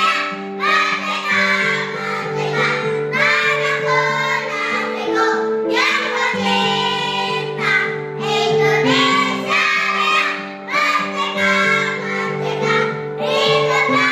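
Children's choir singing in unison over steadily held electronic keyboard chords, with short breaths between phrases.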